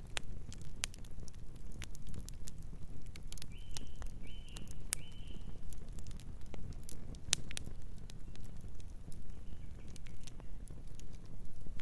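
Wood fire burning with a low steady rumble and frequent sharp, irregular crackles and pops. About four seconds in, a bird gives three short calls in quick succession, with a fainter call later.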